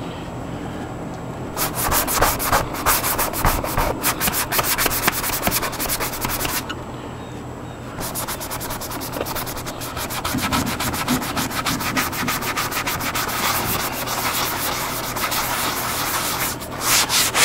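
Rapid back-and-forth hand scrubbing strokes on a surface, in two long spells with a pause of about a second near the middle.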